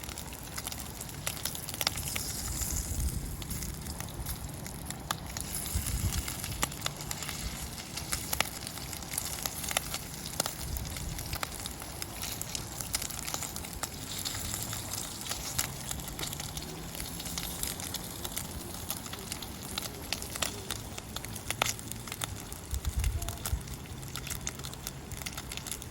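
Campfire burning, with irregular sharp crackles and pops over a steady hiss, and a few low rumbles now and then.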